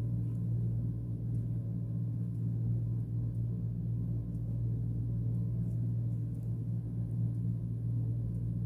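A steady low hum, with a few faint small clicks over it.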